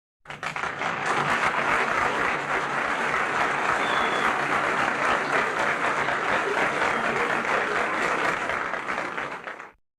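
Crowd applause, starting abruptly and fading out near the end.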